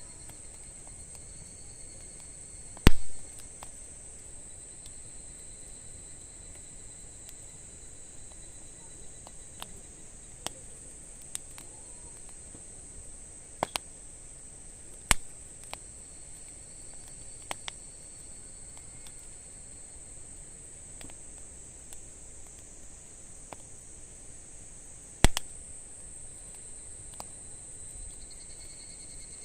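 Wood fire crackling, with scattered sharp pops, the loudest about three seconds in and again near the end, over a steady high-pitched chirring of insects.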